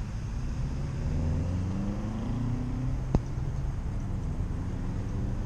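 A motor vehicle's engine running over a low rumble, rising in pitch for about two seconds as it speeds up. A single sharp click comes about three seconds in.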